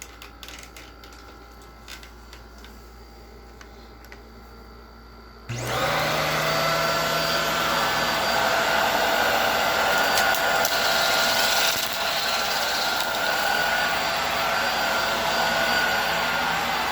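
A few small handling clicks, then a Hoover Air Steerable WindTunnel upright vacuum cleaner switches on about five seconds in, its motor quickly spinning up, and runs steadily with a whine over the rush of air.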